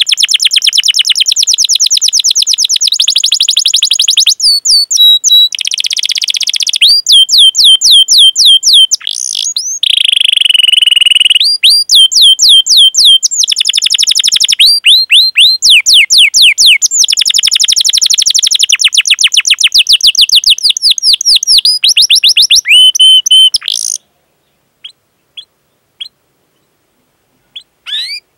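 Domestic canary singing a long, fast rolled song of rapidly repeated sweeping 'cuit cuit' notes, changing tour every few seconds. It stops abruptly about 24 seconds in, leaving only a few faint short chirps.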